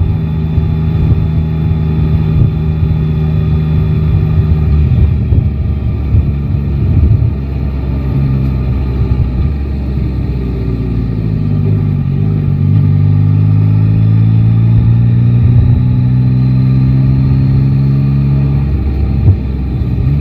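Yamaha Tracer 9 GT's 890 cc inline three-cylinder engine running under way at a steady pitch, which drops about a third of the way in and then rises slowly through the second half as the bike picks up speed, breaking off near the end.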